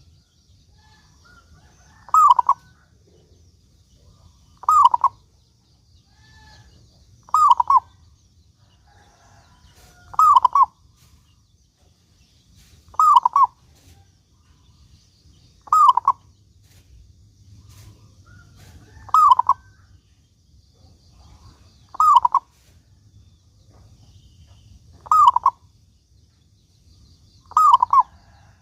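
Male zebra dove (perkutut) cooing: a short, pitched coo phrase repeated ten times, about every two and a half to three seconds, over a faint low hum.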